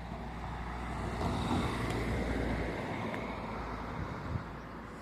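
Triumph Stag's V8 engine as the car drives past, growing louder for a second or two and then fading away.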